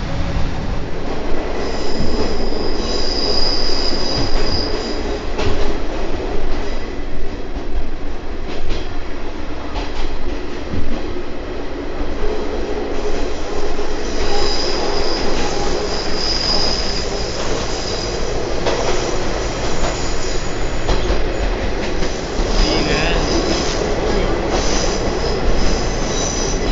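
Watarase Keikoku Railway trolley train running along the track, heard aboard: a steady rumble with wheels squealing high and shrill several times as the train takes curves.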